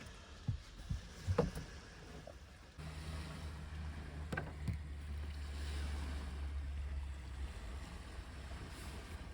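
Lakeside wind and water: a few light knocks in the first couple of seconds, then from about three seconds in a steady low rumble of wind on the microphone under a soft hiss of water.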